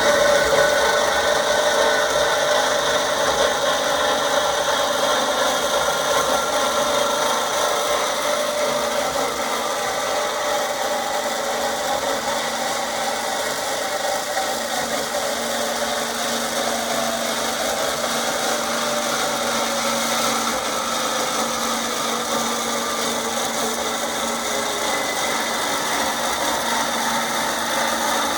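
FMB Pegasus three-phase semi-automatic swivel band saw running steadily, with several held whining tones that drift slightly in pitch over a rasping mechanical noise.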